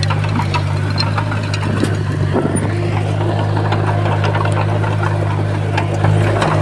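Heavy diesel earthmoving machine running with a steady low drone, with scattered sharp clicks and knocks over it.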